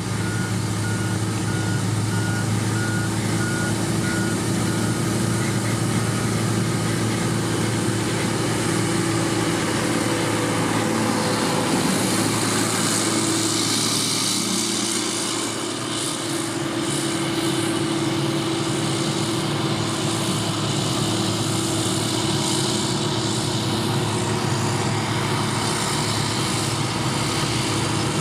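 Heavy road-construction machinery running steadily, a diesel engine under work, with a reversing alarm beeping evenly for the first five seconds or so. A rush of hissing noise rises in the middle and fades again.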